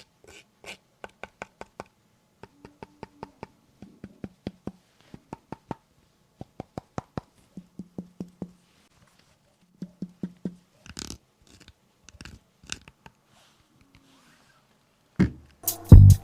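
Runs of short, light clicks and taps, a few a second. Near the end, loud music with drums starts playing from the Xiaomi Mi Sound Outdoor Bluetooth speaker in its audio test.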